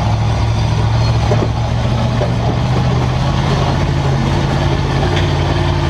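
Demolition derby car engines running, a loud steady low drone, with a few light knocks.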